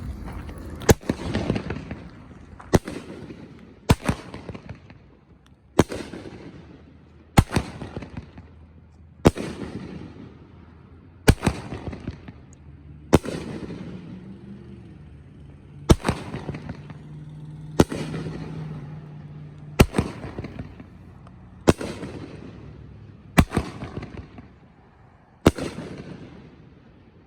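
A Mammoth Peony 500 gram firework cake firing its shots one after another. There are about fourteen loud bangs, roughly one every two seconds, and each dies away in a rumbling echo.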